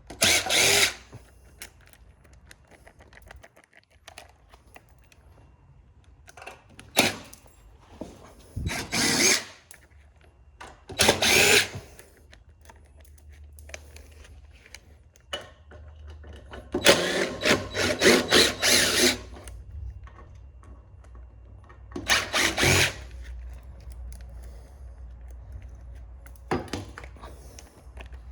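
Power drill-driver running in short bursts as it backs screws out of sheet-metal panels, about five runs with the longest lasting about two seconds, and small clicks of metal parts in between.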